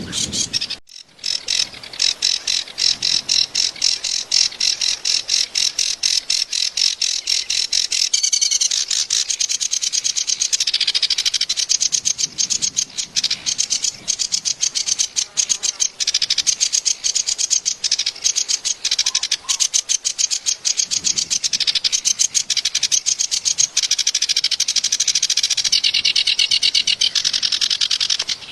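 Kerak basi (reed warbler) singing a long, rapid song of harsh repeated notes. The song is used as tutor material for songbirds and starts after a brief break about a second in.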